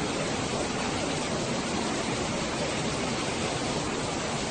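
Steady, unbroken rushing of water, as from floodwater or a downpour.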